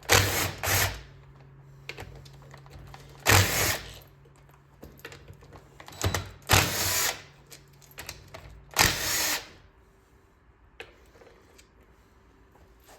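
Power impact wrench with a 7/16 socket hammering out the bolts of a Clinton 410 engine, in several short loud bursts a few seconds apart.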